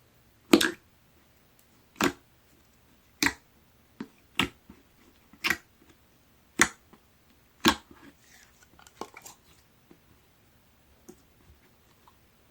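Two-tone brown clear slime with gold pearl being pressed and folded by hand, giving seven loud, sharp air-bubble pops about a second apart, then softer crackles near the end.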